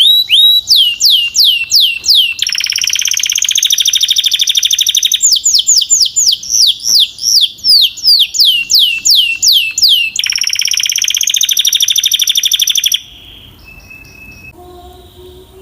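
Canary singing: runs of loud, quickly repeated whistled notes that each fall in pitch, about four to five a second, alternating with rapid even trills. The song stops about 13 seconds in, leaving only a few faint chirps.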